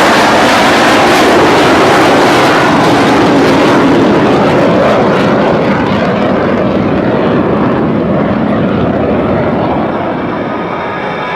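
Blue Angels F/A-18 Hornets' twin-turbofan jet noise, loud as the jets pass low, then fading as they fly away. The high hiss dies out about halfway through.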